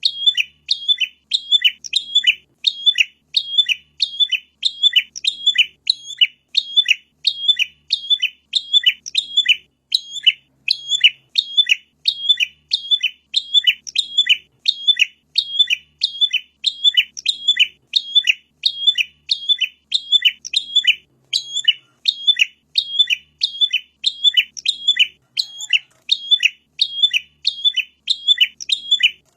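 Prinia (Indonesian prenjak) song: a short, high chirping phrase repeated over and over at a steady, even pace, as in a looped lure recording.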